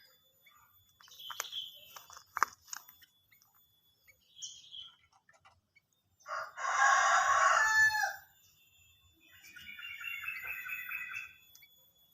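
A rooster crows once, loudly, about six seconds in, the call ending in a falling glide. Before it come scattered small bird chirps and clicks; after it, a bird gives a rapid string of about ten short notes.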